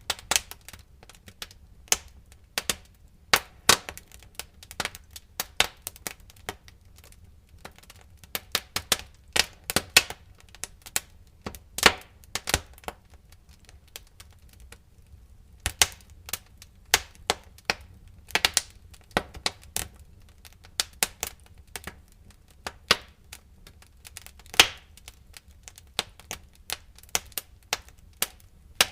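Wood fire crackling, with irregular sharp pops and snaps of varying loudness over a low steady rumble. There is a brief lull about halfway through.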